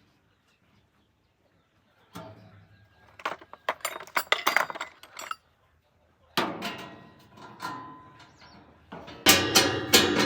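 Light clinking and knocking of hard objects being handled, in two bursts with a short pause between. Near the end, loud drum-led music comes in.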